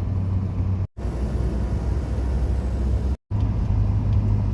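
Steady low engine and road drone of a truck, heard from inside its cab as it drives slowly on ice. It drops to silence twice, briefly, about a second in and a little after three seconds.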